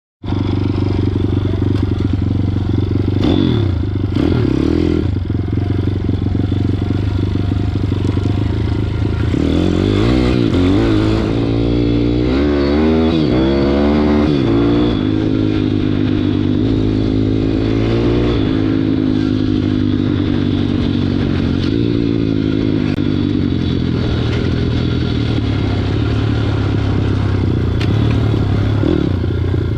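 WPB 160 pit bike's single-cylinder four-stroke engine running under way. It holds a steady pitch for long stretches, with the revs rising and falling briefly about four seconds in and again through a longer stretch from about ten to eighteen seconds in.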